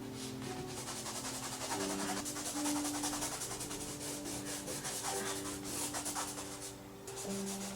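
Quick, rhythmic rubbing strokes, a dry scrubbing sound repeated several times a second, pausing briefly near the end, over soft background music with long held notes.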